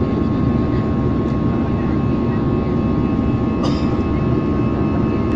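Steady, loud noise of an airliner in flight heard from inside the cabin: engine and airflow rumble with a constant hum. A short click comes about three and a half seconds in.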